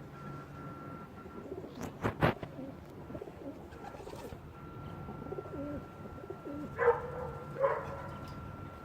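Birds calling, in low pitched notes, with two sharp clicks about two seconds in and two louder sounds near the end. A faint steady high tone runs underneath.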